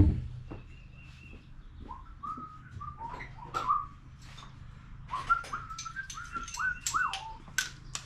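Two runs of short whistled notes at about one pitch, each slightly rising, the first about two seconds in and the second about five seconds in, with light clicks and taps throughout.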